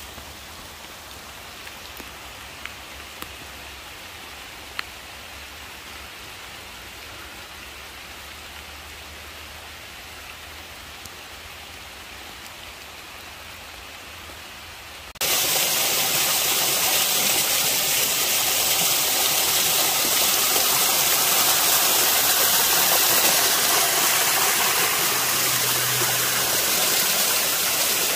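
Steady rain hiss with a few sharp drop ticks. About halfway through, the sound jumps suddenly to a much louder, steady rush of falling water.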